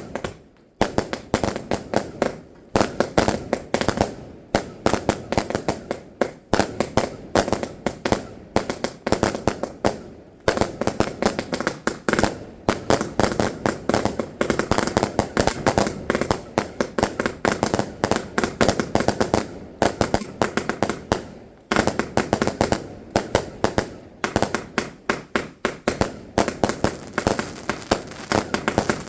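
Fireworks going off in a rapid, continuous run of sharp bangs and crackles, several a second. There are brief lulls about half a second in, around ten seconds in and around twenty-one seconds in.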